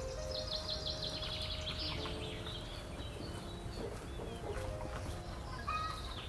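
Bird chirping: a fast trill of high chirps in the first two seconds and another burst of falling chirps near the end, over soft background music.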